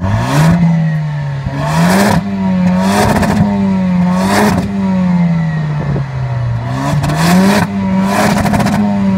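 Car engine revving up and down repeatedly, its pitch climbing and falling back several times, with short rushes of noise about once a second.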